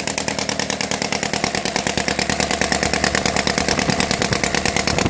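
Kolm 135cc boxer engine on its first run, running steadily with a rapid, even firing beat.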